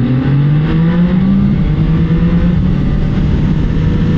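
Motorcycle engine pulling under acceleration while riding, its pitch rising over the first couple of seconds and then holding steady, with a low wind rumble underneath.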